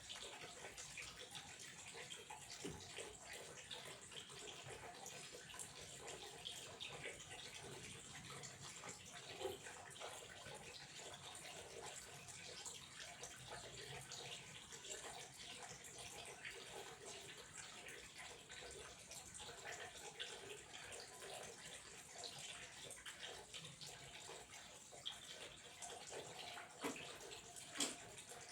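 Faint running water flowing and trickling steadily, with many small splashes and drips and a few louder splashes, the loudest near the end.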